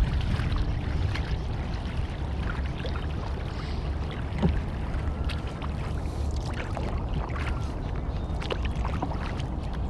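Kayak paddling on a lake: water splashing and trickling off the paddle and around the hull of a Horizon Hydra 14 sit-inside kayak, with small scattered splashes and knocks, over a steady low wind rumble on the microphone.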